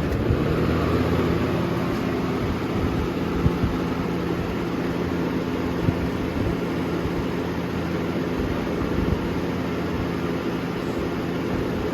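Air King 9723 box fan running fast, with a steady motor hum under the whoosh of its blades moving air. A few faint knocks come through, the shake of a cheaply made blade set.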